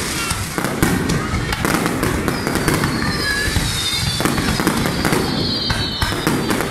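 Fireworks display: a rapid run of bangs and crackles from shells bursting overhead. From about two seconds in, several high whistles glide slightly down in pitch over the bangs.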